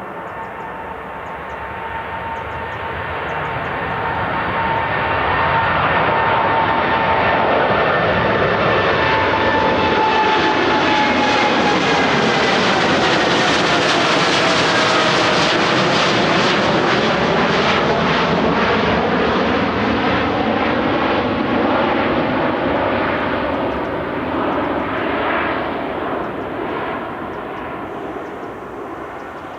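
Jet airliner passing close by, its engine noise swelling, holding loud, and fading near the end, with the engines' whine sliding down in pitch as it goes past.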